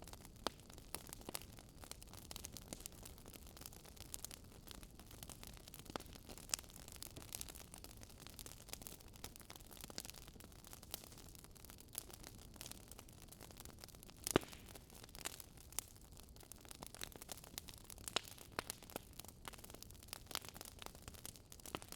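Wood fire crackling: irregular small pops and snaps over a faint steady hiss, with one sharper pop about fourteen seconds in.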